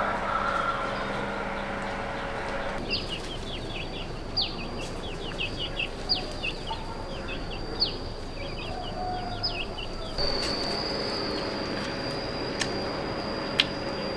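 Birds chirping in short, repeated, falling calls over a steady high-pitched whine, with a few sharp clicks near the end.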